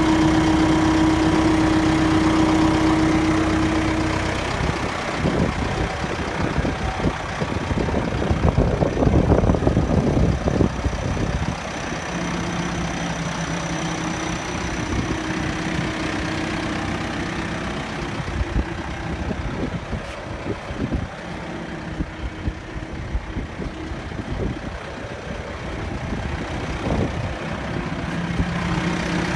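Case 580 backhoe loader's diesel engine running, steady at first, then louder and rougher from about five to eleven seconds in, then settling back with its pitch shifting as engine speed changes.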